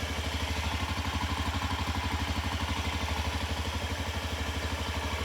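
Honda Zoomer scooter's 50cc four-stroke single-cylinder engine idling steadily with an even, rapid pulse.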